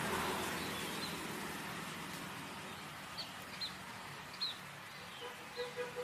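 A small bird chirping, short high notes every half-second or so, over the steady hiss of road traffic that fades away during the first seconds.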